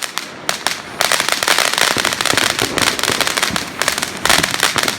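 Consumer fireworks crackling and popping: a few scattered pops, then from about a second in a dense, rapid run of sharp cracks.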